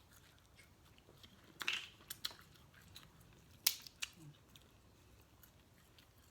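Close-up eating sounds from a seafood boil: soft chewing with a few sharp cracks and clicks, the loudest a little past the middle.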